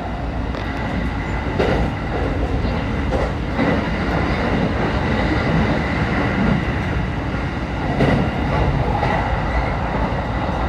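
Saikyo Line E233-series commuter train running, heard from inside the front car: a steady rumble of wheels on rail with a faint steady high tone, and a few sharp knocks about two, three and a half, and eight seconds in.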